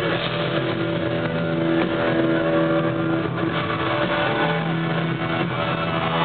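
Live country-rock band playing an instrumental break, with long held notes from distorted electric guitar over the band. The recording sounds muffled and lacks the top end.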